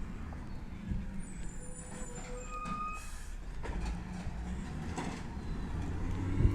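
Peterbilt 320 automated side-loader garbage truck running, its engine a steady low rumble, with a brief high squeal near the middle and a sharp knock near the end.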